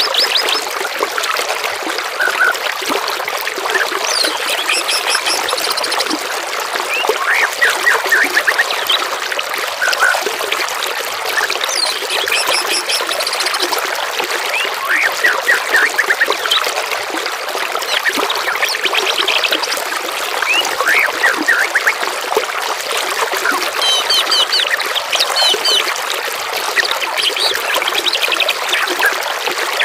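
Steady trickling, flowing water with several songbirds calling over it in a dense mix of chirps, short whistles and rapid trills.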